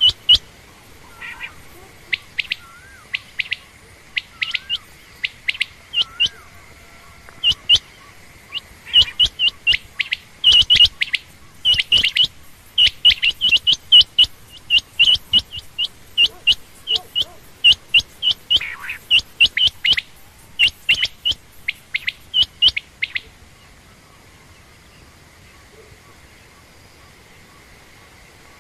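Quail calling: short, sharp, high chirps, scattered at first, then a rapid run of them that stops about four-fifths of the way through.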